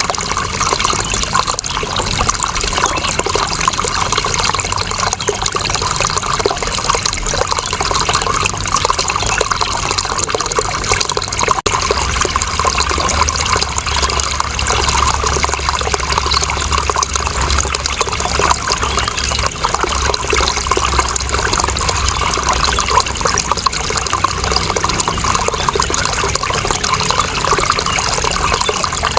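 Water flowing steadily at an even level, with no break. A low rumble underneath grows stronger for about ten seconds midway.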